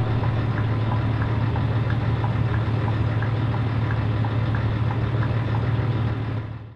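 Scania 113 truck's diesel engine running with a steady low drone, over light regular ticks about three a second. It fades out near the end.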